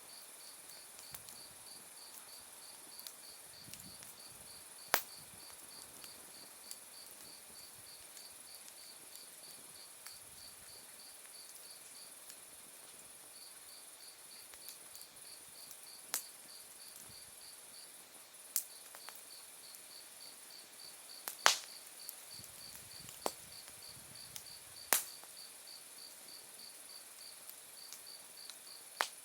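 Autumn night insects calling steadily: one repeating chirp at about four pulses a second over a continuous high trill. A wood fire pops and crackles now and then with sharp single snaps, the loudest about three-quarters of the way through.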